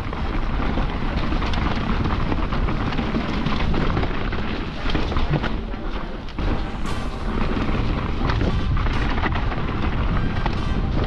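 Mountain bike running fast down a dirt trail: wind buffeting the action camera's microphone with a steady roar, and tyre rumble with frequent short knocks and rattles from the bike over rough ground.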